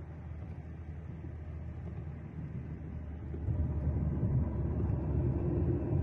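Low road and engine rumble of a moving vehicle, heard from inside, growing louder a little past halfway through.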